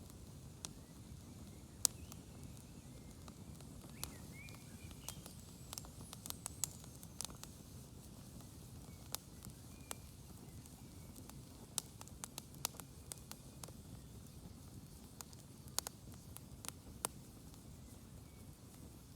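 Campfire of smoky, smouldering wood crackling: irregular sharp pops and snaps, a few of them louder, over a low steady rumble.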